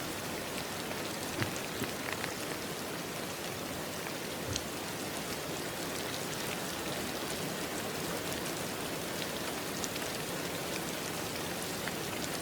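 Steady rain falling on a surface, an even hiss with a few separate drops ticking now and then.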